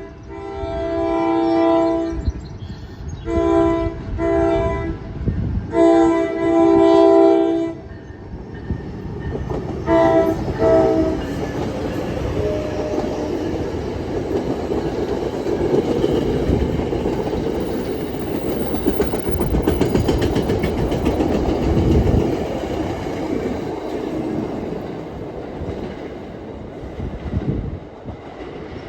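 Passenger train sounding its multi-note horn in four blasts, then rumbling past with wheels clattering on the rails. The sound drops away near the end.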